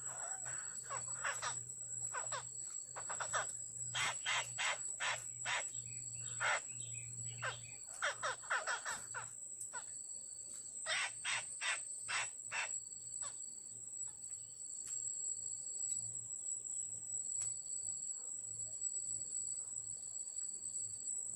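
Black-throated laughingthrush giving harsh, raspy chattering calls in quick bursts for the first dozen seconds or so, then stopping. A steady high insect whine runs throughout, with a shorter high buzz that repeats every second or two.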